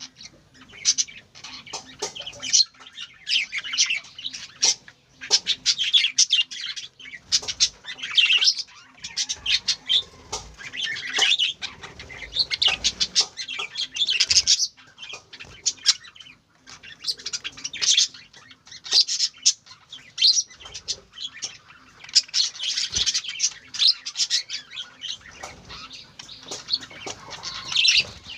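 Small birds chirping and twittering in quick, overlapping bursts of high chirps that come and go in clusters, with a short lull about halfway through.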